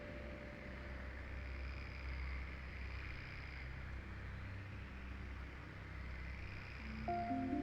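Forest ambience: a steady low rumble and hiss with faint, high, insect-like buzzing that swells and fades twice. Soft sustained music notes come in near the end.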